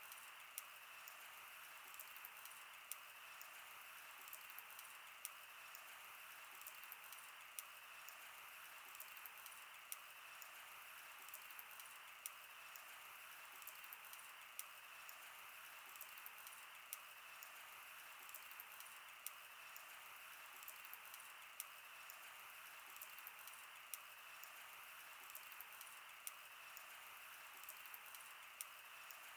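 Wood fire burning: a faint steady hiss with many small crackles, and a sharper pop every second or two.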